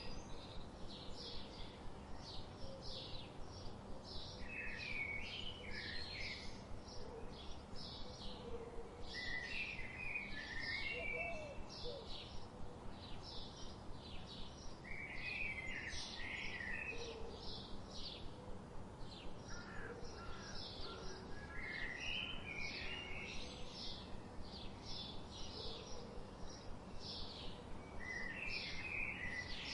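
Wild birds singing. One bird repeats short, high chirps steadily, about two to three a second, while another sings a brief warbled phrase every few seconds, over a steady outdoor hiss.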